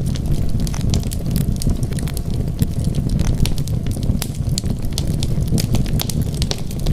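Wood fire burning in a fireplace: a steady low rumble of flame with frequent sharp crackles and pops of burning wood.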